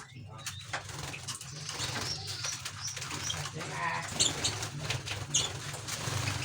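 Cage birds making a few short, high chirps about four to five seconds in, among small clicks and rustling.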